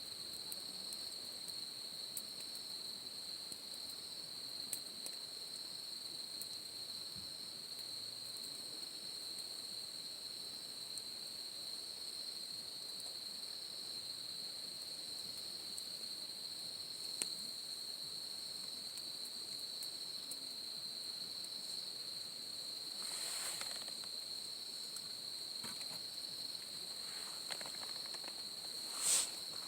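Insects trilling steadily in a single high continuous note, with a few faint scattered clicks. Near the end there are two brief, louder noises.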